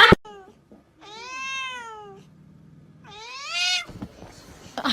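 A domestic cat meowing: a short call, then two long drawn-out meows, the first rising and falling, the second sliding upward.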